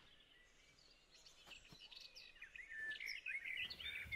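Faint bird chirps and short warbling calls, scattered and growing busier toward the end, over a light outdoor hiss; the first second is almost silent.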